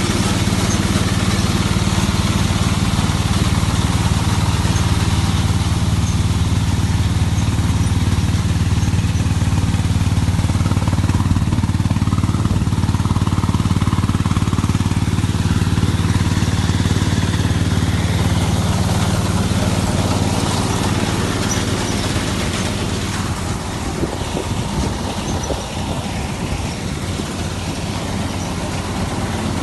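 Combine harvester running, a steady engine hum. About twenty seconds in, the hum gives way to a rougher, noisier sound and gets slightly quieter.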